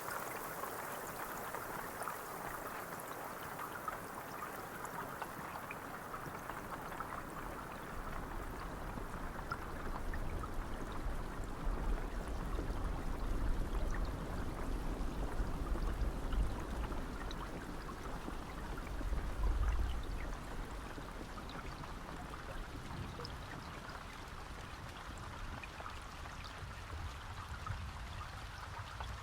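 Steady rain falling, with scattered drop ticks over an even hiss. A low rumble swells in the middle and fades away again.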